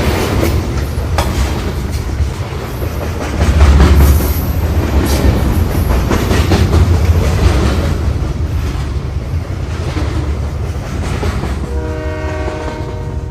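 Train running with a heavy low rumble and wheel clatter, loudest about three and a half seconds in. A multi-tone horn starts sounding near the end.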